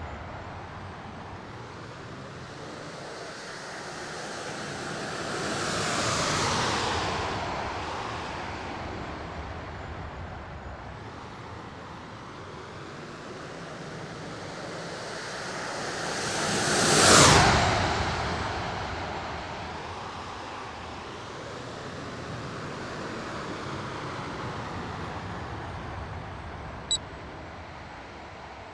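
Radio-controlled F-16 model jet making two flybys over steady wind noise: a rushing whoosh that swells and fades about six seconds in, then a closer, louder pass about seventeen seconds in, rising then falling in pitch. A brief sharp click comes near the end.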